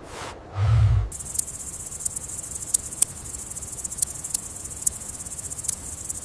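A low, rumbling animal call that stops abruptly about a second in, followed by a steady high-pitched chirring of insects with scattered sharp clicks.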